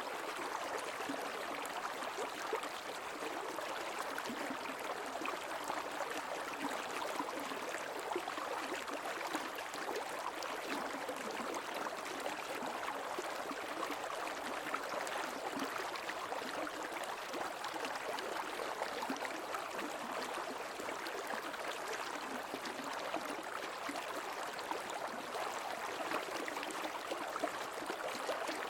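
Creek water running and gurgling over rocks, a steady even rush with fine splashing detail.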